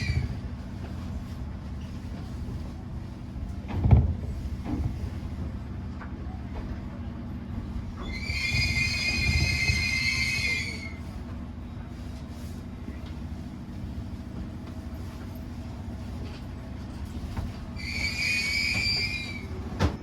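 Rumble of a train running along its track, heard from inside the car. The wheels squeal in high, steady tones three times: briefly at the start, for about three seconds from around eight seconds in, and again near the end. A single thump comes about four seconds in.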